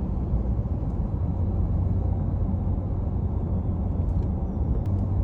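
Steady low road and engine rumble heard from inside the cabin of a car driving at speed.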